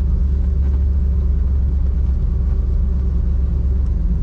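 1977 Chevrolet Camaro's 305 V8 running at a steady cruise with road noise: a low, even rumble with no revving.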